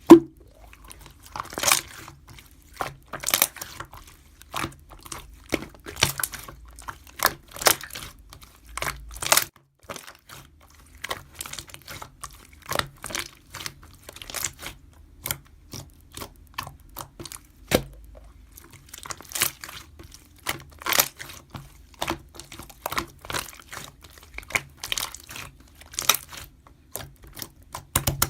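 Irregular sharp clicks and crackles, a couple a second, over a faint low hum.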